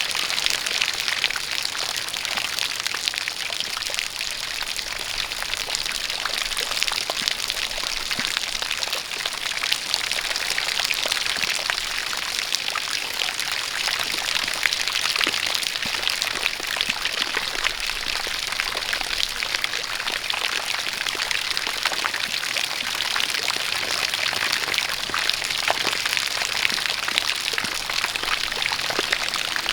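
Steady rain with a dense patter of individual drops, together with a jet of water pouring and splashing.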